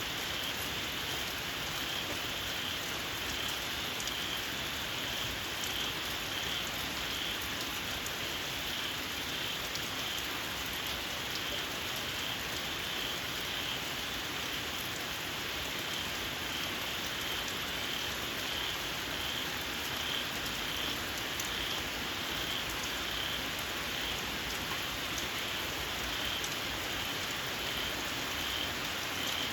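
Steady rain falling, with scattered drop ticks over an even hiss. Over it, a chorus of small frogs keeps up a shrill, high, pulsing call.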